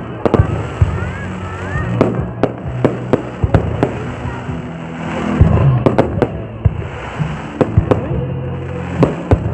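Aerial fireworks bursting: many sharp bangs and crackles in quick, irregular succession, some overlapping, over a continuous low rumble.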